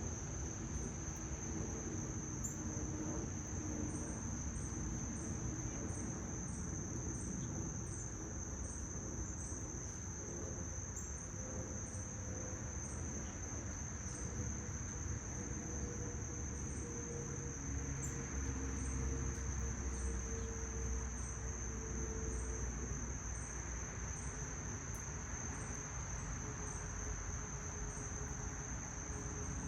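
Insects singing: one steady, high-pitched trill with a second insect chirping above it at about two chirps a second, over a low background rumble.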